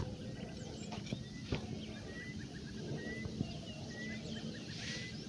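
A bird chirping over and over, one short high note about once a second, with a few faint knocks between the chirps.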